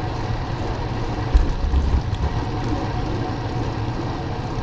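Steady wind rush and road noise while riding a bicycle, with a brief louder low rumble about a second and a half in.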